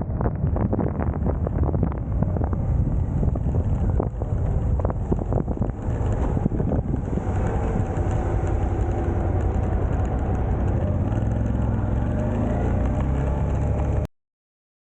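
Suzuki V-Strom's V-twin engine running under way, with wind buffeting the microphone. The wind is gustier in the first half, and the engine settles into a steady drone in the second half. The sound cuts off suddenly near the end.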